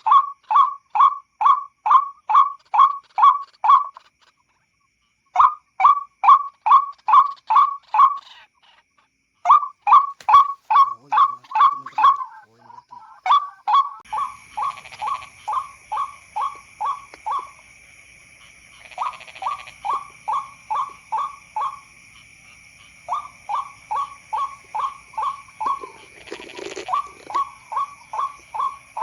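White-breasted waterhen (ruak-ruak) calls: a loud, evenly repeated call about three times a second, in runs broken by short pauses, as used to lure the birds at night. About halfway through, the calls get quieter and a steady high-pitched ringing joins underneath.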